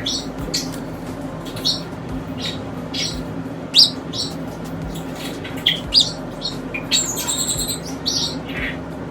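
Pet birds chirping in short, scattered high calls, with one longer call about seven seconds in, over a low steady hum.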